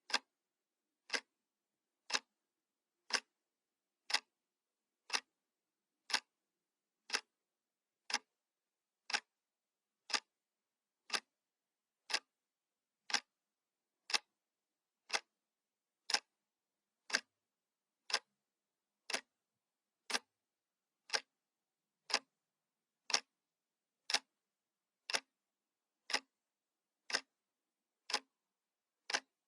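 Analog clock ticking once a second, a sharp dry tick each time with silence between.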